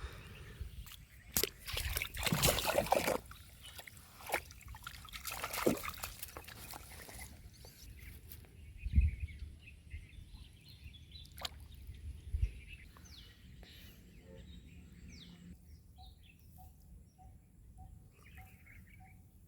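Pond water sloshing and splashing in several short bursts over the first seven seconds, then quieter, with birds chirping faintly.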